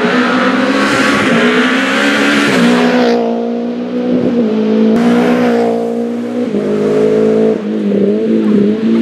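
Rally car engine running at high revs, its pitch stepping up and down several times as it shifts through gears. A rushing hiss comes over it for the first three seconds and again briefly about five seconds in.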